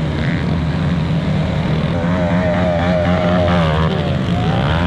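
Dirt bike engines running loudly and steadily, with a higher wavering engine note over them from about two seconds in.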